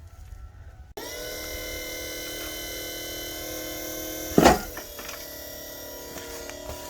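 A small electric motor, the tow truck's wheel-lift hydraulic pump on a battery that is running down, starts suddenly about a second in with a steady whine. A short loud burst comes about four and a half seconds in, and the motor then runs on slightly quieter.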